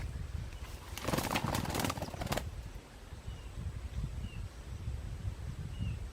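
A burst of rapid wing flapping lasting about a second and a half, starting about a second in, with a bird's short high chirp repeating about once a second over a low outdoor rumble.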